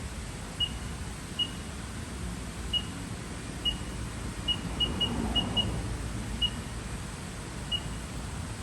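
Short high beeps from the Haas VF-1's CNC control panel as keys are pressed to enter a new spindle speed, about eleven at uneven intervals, some in quick succession. Under them is a steady low hum from the machine running with its spindle at 1500 RPM.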